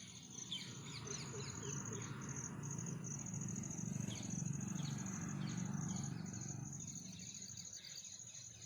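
Outdoor ambience: an insect's steady high, pulsing trill with many short bird chirps over it, and a low hum that grows louder in the middle and fades toward the end.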